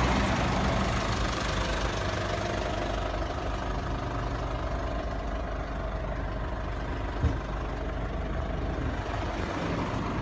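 2010 Ford Ranger's turbo diesel engine idling steadily, with one light click about seven seconds in.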